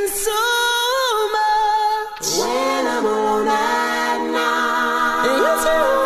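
Singing with no drums or bass under it: long held notes that slide up and down in pitch, with a swooping drop a little after two seconds in.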